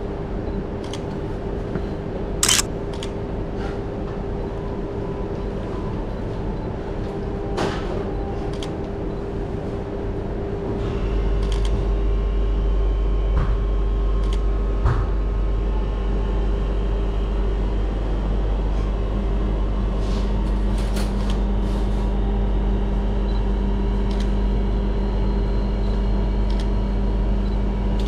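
Steady mechanical hum of kitchen machinery, with a louder, deeper hum switching on about eleven seconds in and running on, and a few scattered clicks and knocks of kitchen work.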